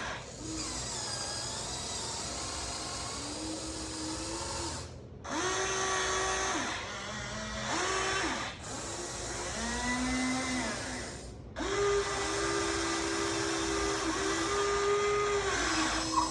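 Electric motors of a Huina 1593 RC excavator whining in a series of short runs as its functions are worked, each run gliding up in pitch at the start and down at the end. A longer steady run starts about twelve seconds in.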